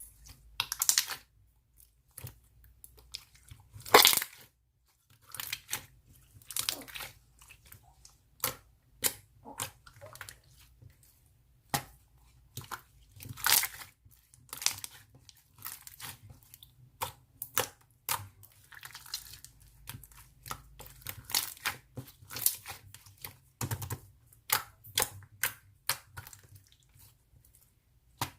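Avalanche slime being squished and stretched by hand: a run of irregular short crackling, sticky popping sounds with brief quiet gaps between.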